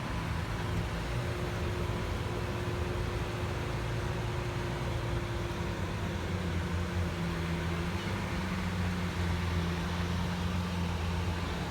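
Lamborghini Aventador S's V12 engine idling steadily, an even low drone with no revs.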